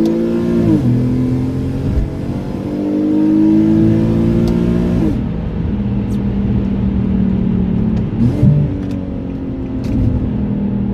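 Infiniti G37's 3.7-litre V6 through a straight-piped exhaust with a high-flow resonator, pulling hard under acceleration. The revs climb, drop at a gear change about a second in, climb again and drop at a second shift about five seconds in, then hold steady with a short rev blip near eight seconds.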